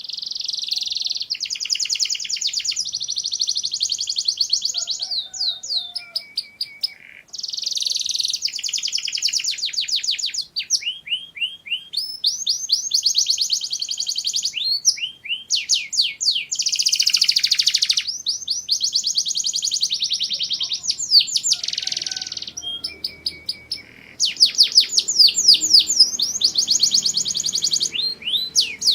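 Domestic canary singing a long, loud song of fast trills and rapid repeated chirping notes, in phrases of a few seconds with short pauses between them.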